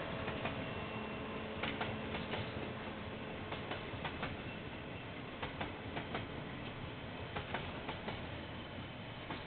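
Train wagons rolling past, with the wheels clicking irregularly over the rail joints, heard through a security camera's microphone.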